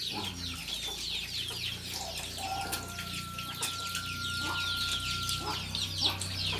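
Chickens clucking and peeping, a dense run of short, falling, high chirps throughout, over a low steady hum. A thin steady tone is held for about three seconds in the middle.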